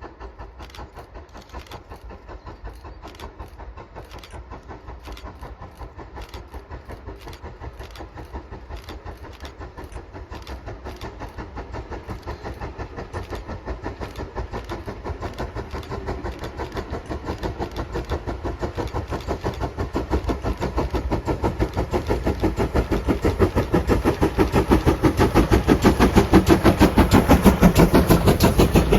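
GWR 2800-class 2-8-0 steam locomotive No. 2857 working a train, its chimney exhaust beating in an even rhythm that grows steadily louder as it draws closer.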